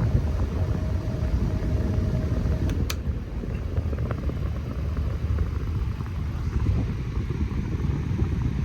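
A Lasko clip fan and a Mainstays 9-inch box fan running together: a steady rush of moving air with low buffeting on the microphone. A faint hum stops a little under three seconds in, followed by a single click.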